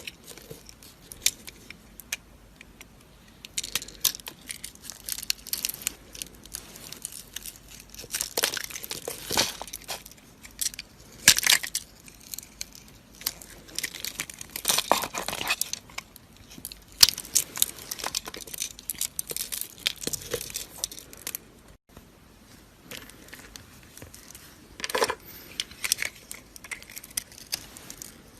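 Dry soap being cut and carved with a knife: irregular crisp crunches, crackles and scrapes, with sharper snaps here and there and a short break about three quarters of the way through.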